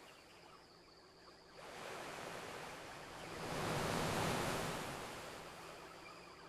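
Ocean wave washing up on a beach: a rushing noise that swells about one and a half seconds in, peaks near the middle and slowly fades away.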